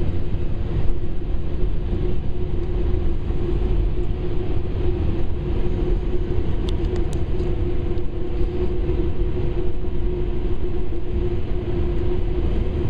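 Dryer blower fans of a Ryko SoftGloss Maxx automatic car wash running with a steady drone and a deep rumble, heard from inside the car at the end of the wash cycle.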